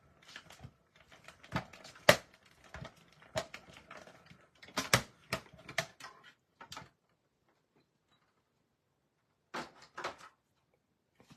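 Irregular clicks, snips and taps of paper-crafting tools and cardstock being handled while tree fronds are cut out, with a quiet gap of a couple of seconds and a short cluster of clicks near the end.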